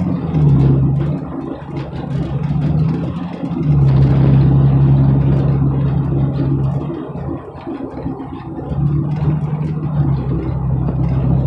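Engine and road noise heard inside the cabin of a moving car or truck: a steady low drone that fades twice and returns.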